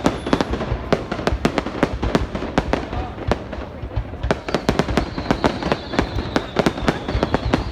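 Fireworks going off: a dense, irregular run of sharp bangs and cracks, several a second, over a low rumble.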